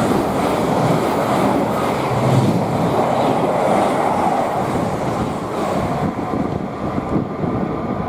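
Thameslink Class 700 (Siemens Desiro City) electric multiple unit passing, a loud steady rush of wheels on rail and air that eases a little near the end.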